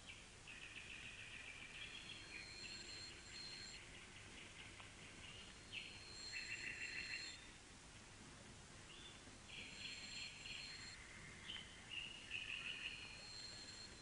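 Bird song, faint: about five rapid trilled phrases, each a second or two long, with the loudest near the middle. A thin, steady high tone comes and goes above them.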